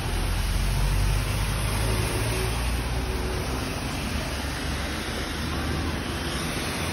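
Steady hiss of rain falling on wet pavement, with a low rumble that is strongest in the first two seconds.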